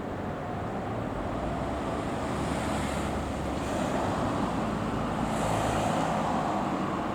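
Fire truck driving past: engine and tyre noise swelling as it nears, loudest about two-thirds of the way through, then easing off, with no siren.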